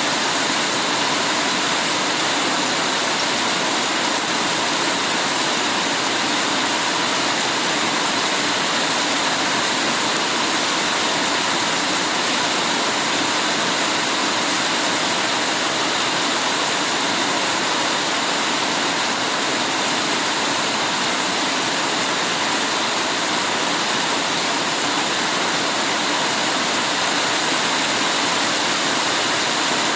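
Heavy rain falling steadily, a dense, even hiss of water with no let-up.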